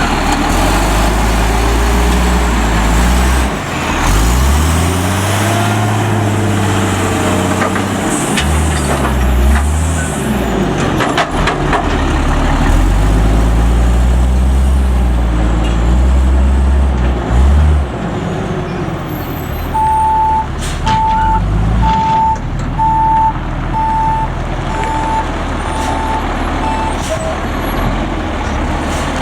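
Autocar front-load garbage truck's diesel engine revving up and down several times, with a few sharp clanks. A backup alarm then beeps about once a second, eight times, as the truck reverses.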